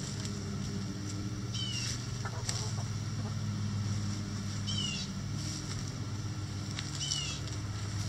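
A bird's short high chirp, sweeping downward, repeated about every two and a half seconds, four times in all, over a steady low hum.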